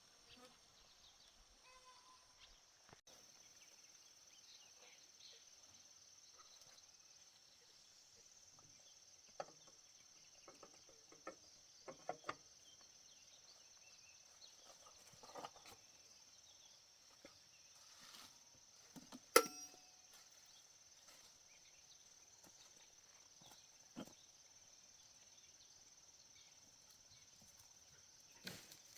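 Faint, steady high-pitched insect chirring, with scattered light clicks and knocks, one sharper click about two-thirds of the way in.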